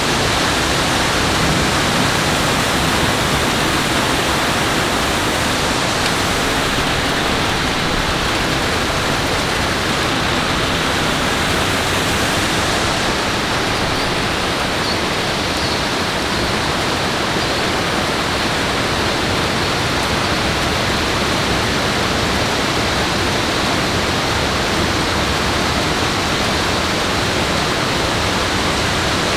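Steady rushing of water, an even hiss with no breaks or distinct events.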